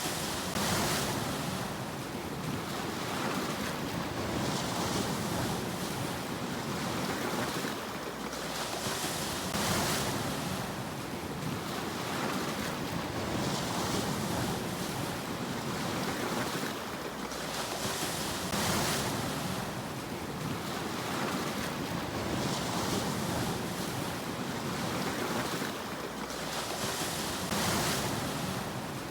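Sea waves washing in: a steady wash of surf that swells louder about every eight to nine seconds as each wave comes in.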